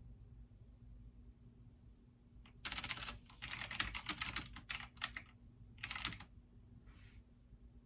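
Typing on a computer keyboard: a quick run of keystrokes begins about two and a half seconds in and stops a little after six seconds, with one faint keystroke after it.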